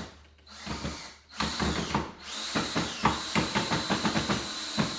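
Power drill driving a screw into wood at an angle: a short burst, then a long run with the motor whining and rapid, irregular clicking throughout.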